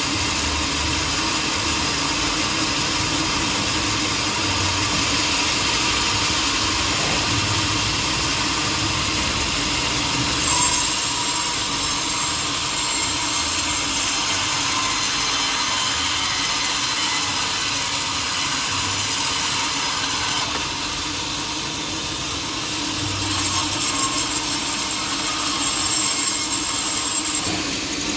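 Sawmill saw running and cutting through teak, a steady machine hum under a continuous sawing rasp that gets brighter and louder about ten seconds in and swells again near the end.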